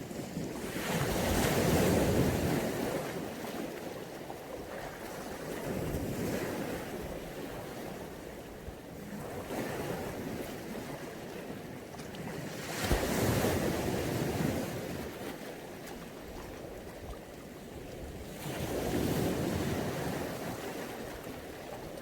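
Mediterranean sea waves breaking and washing up the shore, the surf swelling every few seconds, with three larger waves: one about two seconds in, one past the middle, one near the end.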